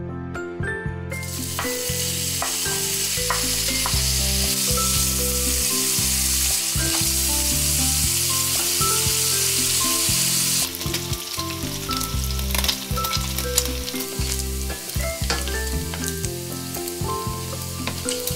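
Diced pork sizzling as it fries in hot oil in a stainless steel pan, starting about a second in. About halfway through the sizzle thins and a wooden spatula taps and scrapes the pan as the pieces are stirred and browned.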